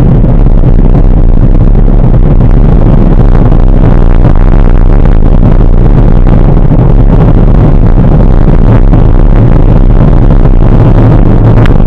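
Loud, steady low rumble of wind buffeting the microphone and road noise while riding a bike.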